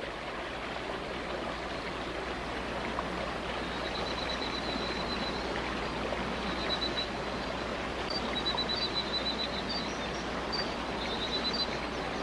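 Steady rush of rain and a running stream. From about four seconds in, short, high-pitched trilling calls from a small animal repeat on and off over it.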